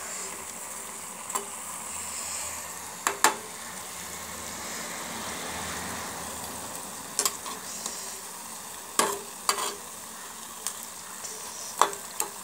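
Jalebis sizzling steadily as they deep-fry in hot ghee in a steel pan. A metal slotted spatula clinks against the pan now and then as they are turned and lifted.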